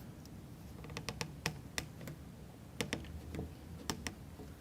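Light, sharp wooden clicks and taps, scattered and some in quick pairs, from plywood model-kit parts being handled as a toothpick peg is pushed through a wheel to fix it on its axle.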